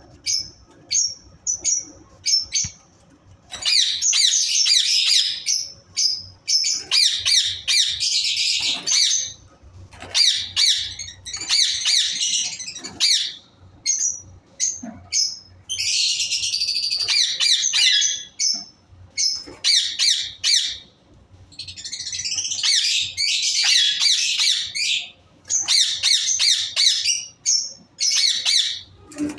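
Parrots chattering and squawking in shrill calls. Single short chirps come first, then repeated dense stretches of chatter, each a second or two long.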